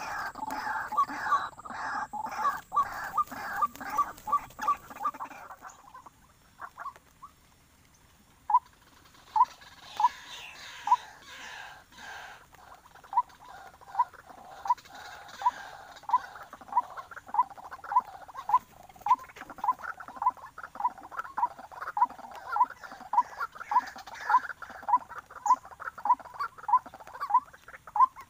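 White-breasted waterhen (ruak-ruak) calls: short, sharp notes repeated in a steady series. They are dense at first, break off for about two seconds, then resume at about two a second.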